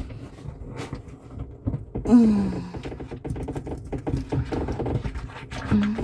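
Light clicks and knocks of hands working at the parts of a dishwasher. About two seconds in a brief vocal sound falls in pitch.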